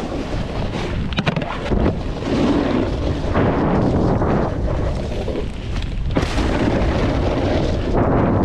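Wind rumbling on the microphone and the hiss of a snowboard sliding over snow, with a few sharp clicks a little over a second in.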